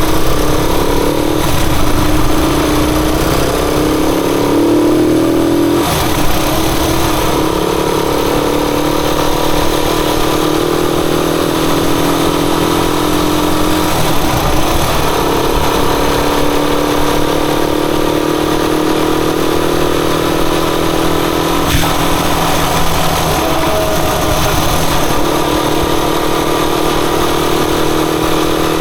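Rusi Chariot 175 motorcycle engine running steadily while riding, its pitch drifting slightly up and down as the throttle changes, over a rough rumbling noise.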